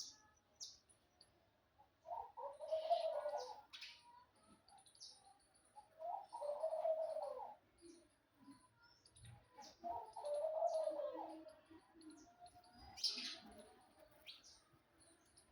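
A bird cooing in low phrases of about a second and a half, repeated roughly every four seconds, with small birds giving short, high chirps in between.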